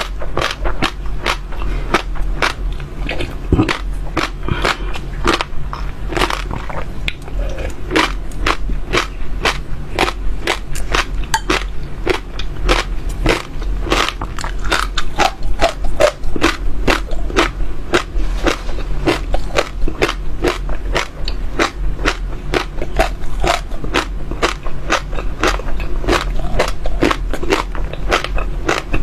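Seeds being crunched between the teeth: a fast, unbroken run of sharp crisp cracks, several a second.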